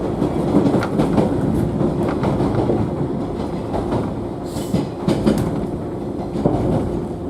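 Inside a JNR 113 series electric train car running along the line: a steady rumble with the wheels clicking over rail joints. There is a brief hiss about four and a half seconds in.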